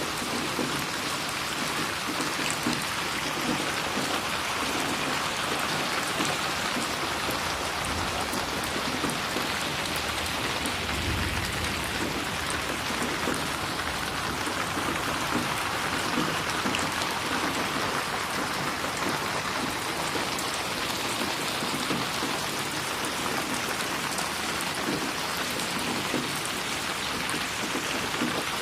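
Steady rain falling and splashing on a surface, an even unbroken hiss of drops with no thunder.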